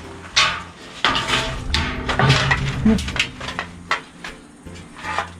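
Irregular metallic clanks and knocks, typical of working with corrugated sheet-steel siding, over soft background music.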